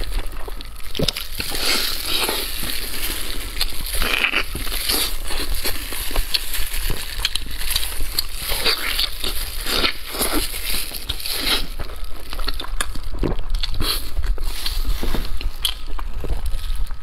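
Close-miked eating sounds of braised pork knuckle being chewed and pulled apart: a dense run of wet clicks, smacks and crackles from chewing, with the meat tearing off the bone.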